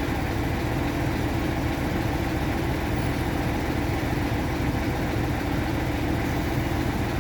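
Engine of the boat lift running steadily as it raises a boat on straps.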